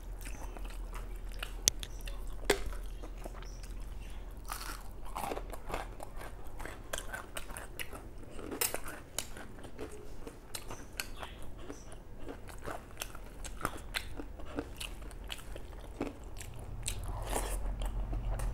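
Chewing and biting sounds of a person eating a rice meal, with many small, sharp mouth clicks and crackles.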